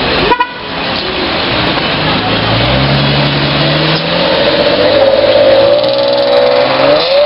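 Sports car engine accelerating, its pitch climbing over the last few seconds and dipping briefly before rising again near the end. A sharp click comes about a third of a second in.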